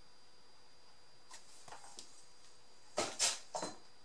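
Paper being handled on a tabletop: a few faint ticks, then three short, crisp rustles about three seconds in.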